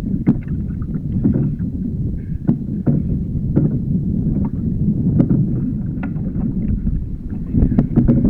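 Sea water sloshing against a fishing kayak's hull, with wind rumbling on the microphone and scattered small knocks and clicks.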